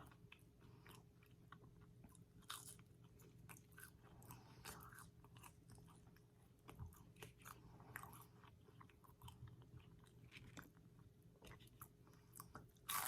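Faint, close-up chewing of McDonald's fast food, with scattered small clicks and crunches from the mouth.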